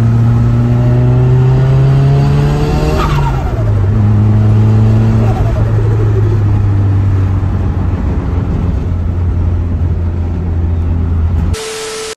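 A car engine pulling hard with its pitch climbing, then dropping sharply about three seconds in, then running steadily at a lower pitch that slowly sinks.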